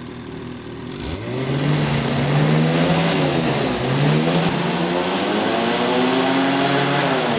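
2018 Ski-Doo 850 Freeride's two-stroke twin engine, through its stock muffler, idling and then revved hard twice, its pitch climbing about a second in, dipping briefly midway and rising again before falling off at the end.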